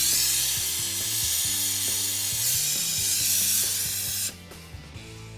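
Jeweler's gas torch with a large number 7 tip burning hot, a loud steady hiss that stops abruptly about four seconds in. Background music with low held notes plays underneath.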